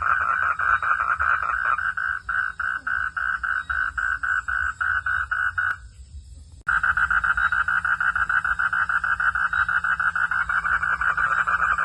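Frogs calling at night: a rapid pulsing call, about five pulses a second. It cuts off suddenly for about a second midway, then resumes.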